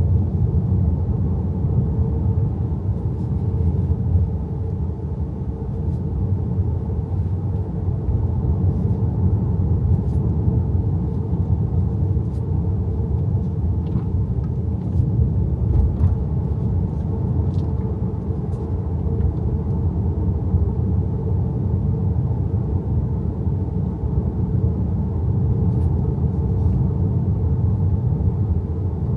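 Steady low road and tyre rumble in the cabin of an XPENG G6 electric SUV while driving, with no engine note.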